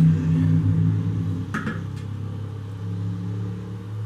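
A motor running steadily with a low hum that swells up at the start and then holds, with a single sharp click about one and a half seconds in.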